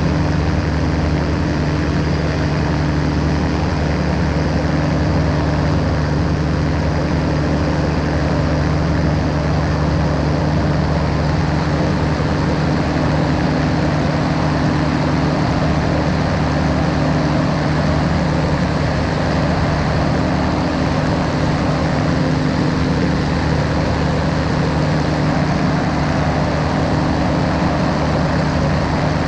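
Ultralight aircraft's engine and propeller running steadily at constant power, an even drone with a wide rush of noise over it and no change in pitch.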